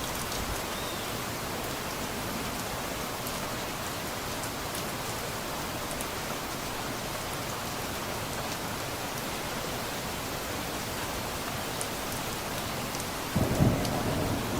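Steady rain falling. Near the end a sudden loud, low rumble of thunder breaks in over it.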